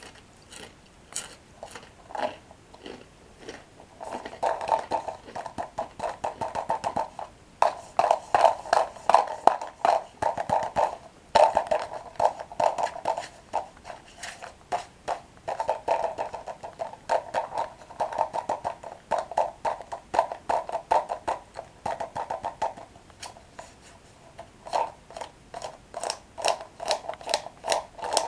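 Close-miked crunching and chewing of toasted breadsticks: a few crisp crunches at first, then rapid, steady crackly chewing, with a brief pause about two-thirds through before it resumes.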